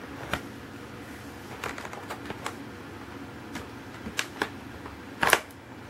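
Scattered light clicks and taps of a packaged die-cast toy car being handled, about eight in all at uneven intervals, with a louder double click near the end.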